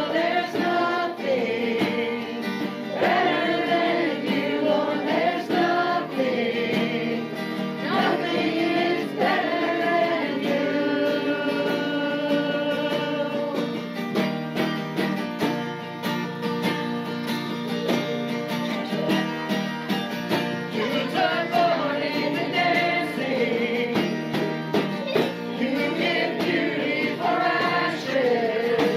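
Congregational worship singing with guitar accompaniment: voices singing a praise song over strummed guitar.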